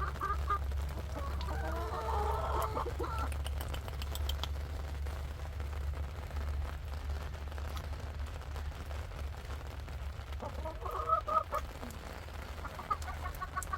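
Hens clucking in short bursts, about two seconds in and again around eleven seconds, over a steady low rumble.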